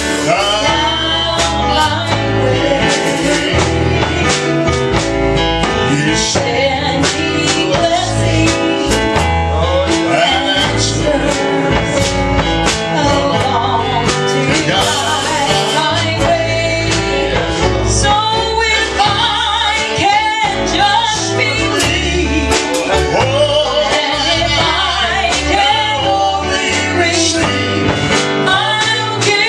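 Gospel duet sung live by a man and a woman, with guitar and band backing and a steady beat.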